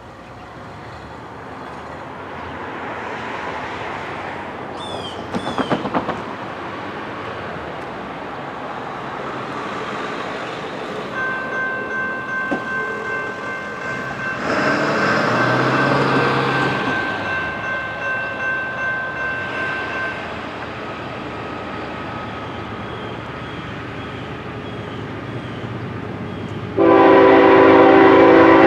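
Approaching diesel freight train led by a GE ES44AC locomotive, with a grade-crossing bell ringing at about two strokes a second through the middle, and the locomotive's air horn sounding loudly near the end.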